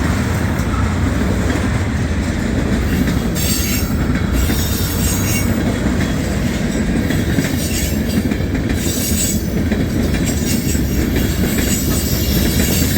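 CSX freight train of tank cars rolling past close by: a steady, loud rumble of steel wheels on the rails. Brief high-pitched wheel screeches and hisses come every second or two.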